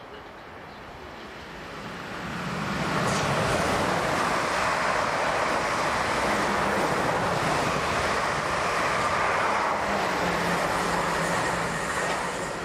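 Southwestern Railway class 444 Desiro electric multiple units passing at speed: a rushing of wheels on rail that swells about two seconds in, then holds loud and steady with a low hum underneath.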